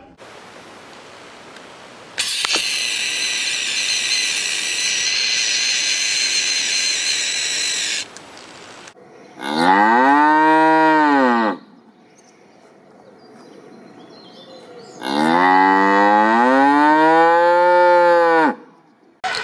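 A cow mooing twice, two long calls that rise and then fall in pitch, the second longer. Before the calls comes a few seconds of steady high-pitched noise.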